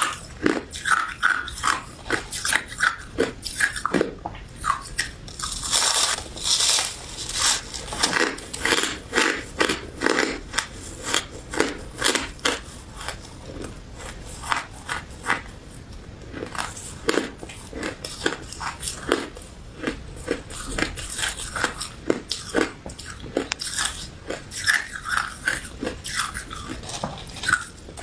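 Close-miked biting and chewing of crunchy crystal ice dessert with citrus jelly: a continuous run of crisp crackling crunches, thicker in several stretches.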